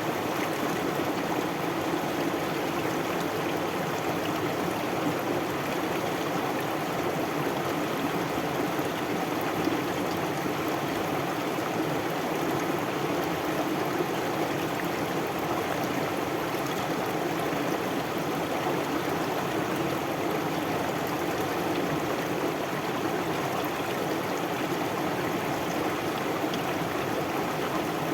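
A stream of running water flowing steadily, an even rush with no breaks.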